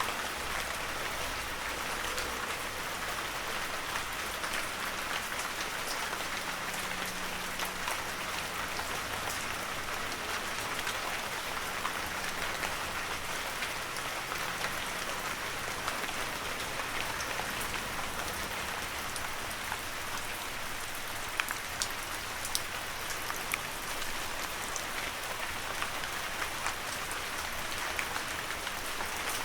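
Heavy rain falling steadily, an even hiss dotted with the ticks of individual drops, a few sharper drop hits in the second half.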